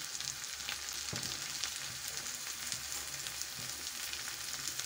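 Chopped onion and green bell pepper sizzling in hot oil in a kadhai: a steady hiss with scattered small crackles.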